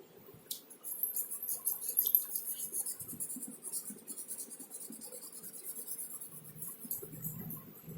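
A drawing tool scratching across paper in a quick run of strokes, busiest in the first half and lighter after.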